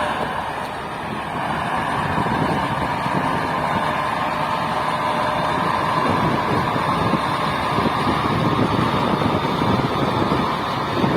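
Kirovets K-700 tractor's overhauled YaMZ-238 turbocharged V8 diesel engine running steadily, with a faint steady whine over the engine note.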